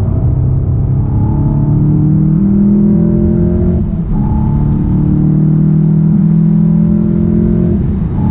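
Golf VII GTI Performance's turbocharged 2.0-litre four-cylinder engine heard from inside the cabin, pulling hard under full acceleration with its pitch climbing steadily. Its note drops briefly about four seconds in and again near the end as it shifts up a gear, then climbs again.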